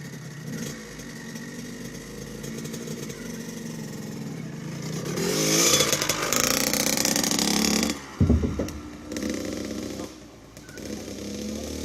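85cc two-stroke dirt bike engine revving, its pitch rising as it accelerates and loudest in the middle as it passes close by. A sudden loud thump comes about eight seconds in, after which the engine is quieter.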